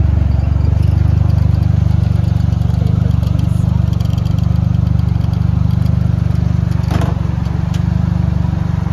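Car engine idling steadily at close range, with a sharp click about seven seconds in.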